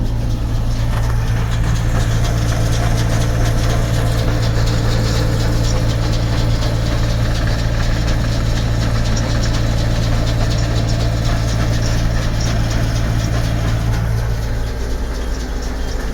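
Tractor engine running steadily under load, driving a round baler as it feeds in crop and builds a bale. Near the end the strong low hum drops out and the sound eases slightly.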